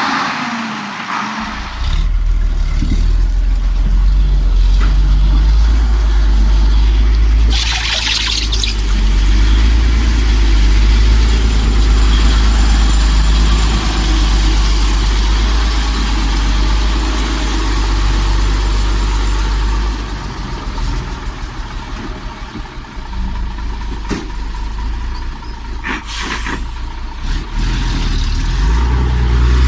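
Heavy diesel truck engine running deep and steady under load, easing off about two-thirds of the way through. A short hiss comes about eight seconds in.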